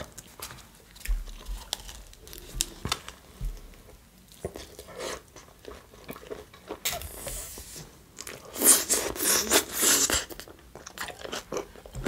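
Close-miked eating sounds: biting into and chewing a chicken shawarma in a soft lavash wrap, with wet mouth clicks and smacking. The chewing gets louder about seven seconds in and again from about eight and a half to ten seconds.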